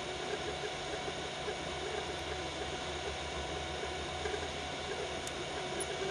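Biqu BX 3D printer printing at 120 mm/s: its stepper motors whirr in short tones that change pitch with each move, over a steady fan hum.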